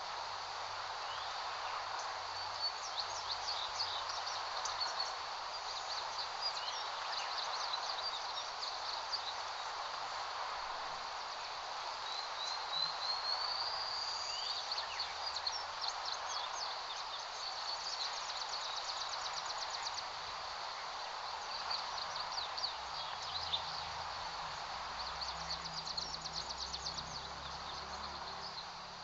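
Steady breeze rustling through grass, with small birds chirping over it: many short high chirps and a few quick trills.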